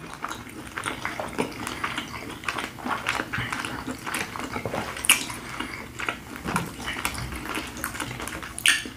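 Close-miked chewing of shrimp and chicken fajita wraps: a steady stream of wet smacks and small mouth clicks.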